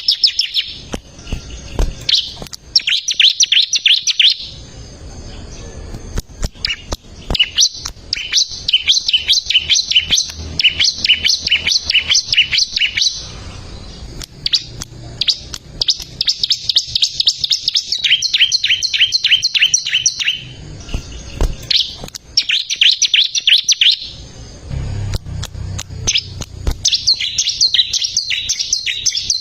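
A ciblek (bar-winged prinia) singing loudly. It repeats bouts of rapid, high, evenly spaced chipping notes, each bout lasting a few seconds with short pauses between.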